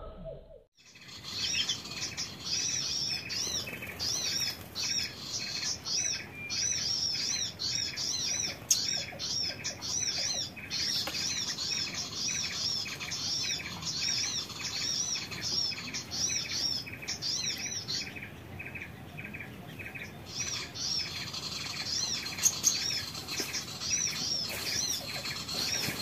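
Small songbirds chirping in a fast, unbroken chorus: repeated high twittering calls over a steady series of short pips, about three a second, starting abruptly about a second in.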